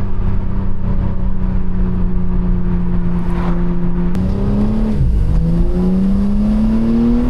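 BMW M4 Competition's twin-turbo straight-six engine and exhaust under way, holding a steady note, then accelerating: the pitch drops sharply at an upshift about five seconds in and climbs again.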